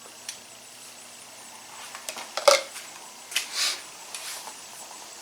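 A few light clinks and knocks of small metal parts and tools being handled while the oil is put back in and the fill cap is fitted to a Suzuki RM85's crankcase. The sharpest knock comes about halfway through, with a couple more soft rattles after it.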